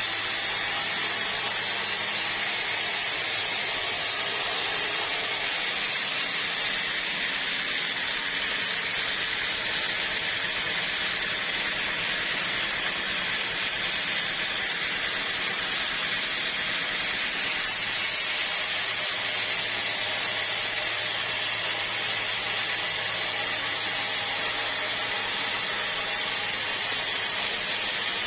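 Sawmill machinery running steadily: an even hiss with a low hum underneath, unchanged throughout.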